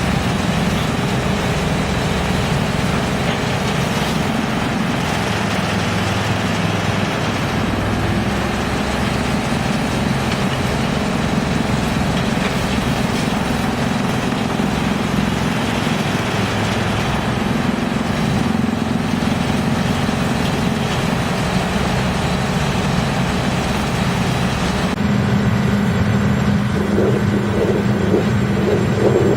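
YGX2113 drum wood chipper running, a loud steady mechanical drone with a dense hiss over it; the sound changes abruptly about 25 seconds in.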